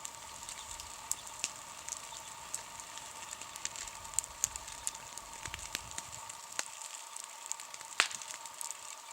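Wood campfire crackling, with irregular sharp pops and a louder pop about eight seconds in.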